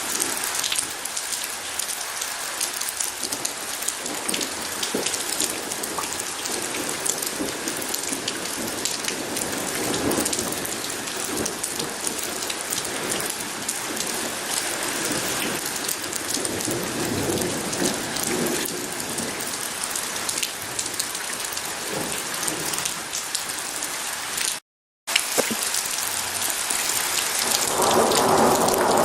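Steady rain falling hard, a continuous hiss full of fine pattering drops, with thunder rumbling now and then and a louder rumble building near the end. The sound cuts out completely for a split second a few seconds before the end.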